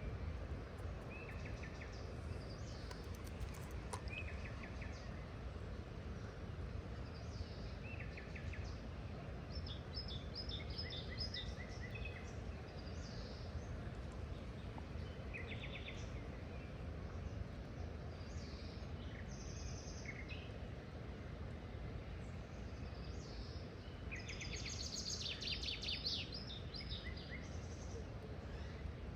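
Several wild birds calling and chirping in short trilled phrases, busiest near the end, over a steady low background rumble.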